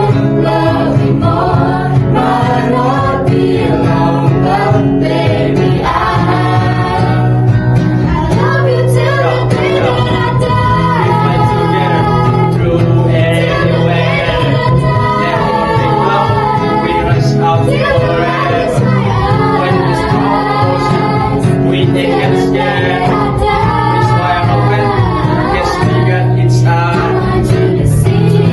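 A school vocal group singing a pop song together in harmony over a steady sustained accompaniment.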